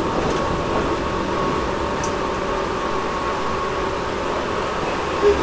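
Tobu 10000-series electric commuter train running, heard inside the car above the main controller: a steady hum of running noise mixed with the car's air conditioning. A short bump about five seconds in.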